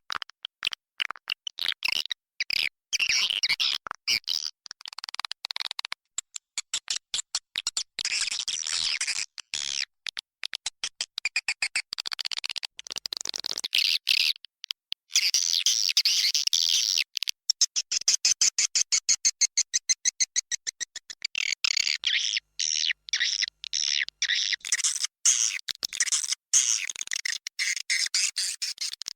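Swiftlet calls played as a swiftlet-house lure (roosting call): rapid trains of sharp clicks and chirps following one another closely, with a few short breaks.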